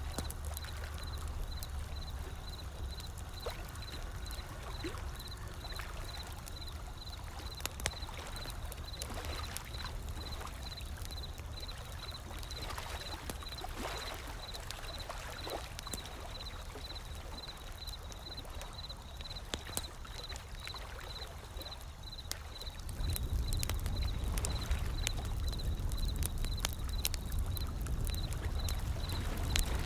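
Wood fire crackling, with scattered sharp pops, over the steady wash of ocean waves. The low surf rumble swells louder about three-quarters of the way through.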